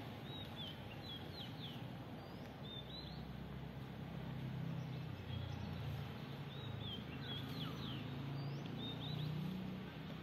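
Small birds chirping in short, quick calls, over a low steady hum that grows a little louder about halfway through.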